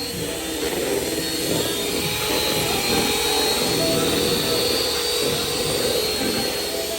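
Small electric motor appliance running steadily with a whirring hum, cutting off abruptly near the end.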